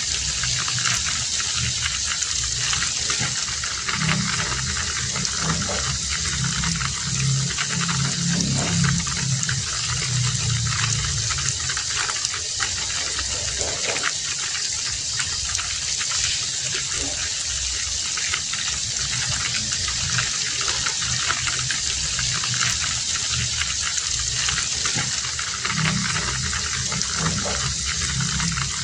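Heavy rain falling steadily, a dense even hiss. A low rumble swells underneath twice, once between about 4 and 11 seconds in and again near the end.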